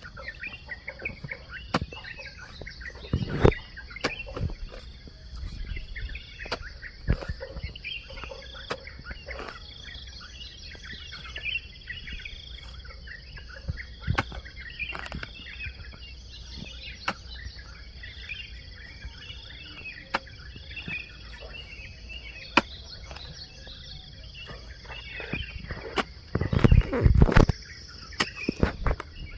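Birds chirping and calling over a steady high hum of insects, broken by scattered dull knocks of a hoe blade striking soil, with a quick run of louder chops near the end.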